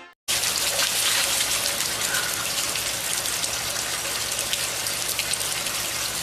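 Steady rain falling, a continuous even hiss of water that starts suddenly a moment in.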